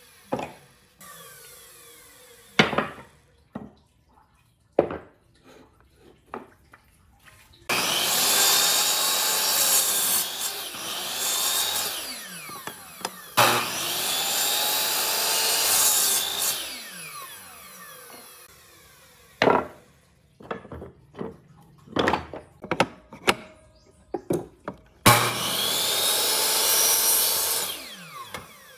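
Wood being cut or worked with a power tool in three runs of a few seconds each, with sharp knocks and taps of wood being handled between the runs.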